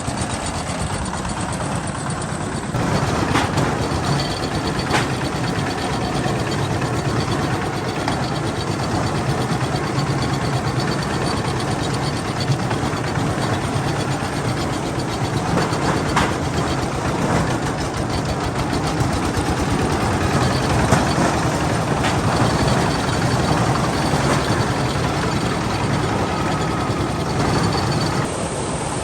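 Tractor engine running steadily, with a few sharp clacks; the sound gets louder about three seconds in and drops back near the end.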